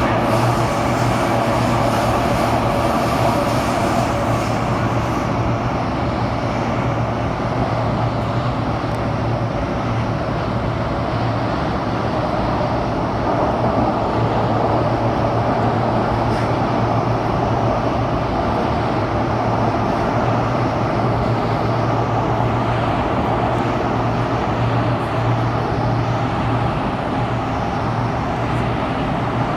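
Steady running noise of a Kawasaki-Sifang CT251 metro train heard from inside the car at speed: a continuous low drone under dense wheel and rail noise. The wheels of this car are flat-spotted, which the uploader calls 'earthquake flat wheels'.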